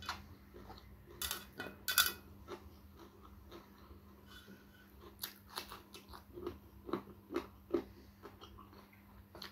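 Crisp bites and chewing of raw vegetables (lalap) eaten with rice: two loud crunches a second or so in, then a run of smaller crunches later on.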